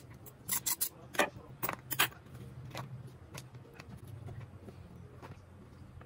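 A quick run of sharp clicks and light knocks in the first two seconds, then a few faint ticks, over a steady low hum.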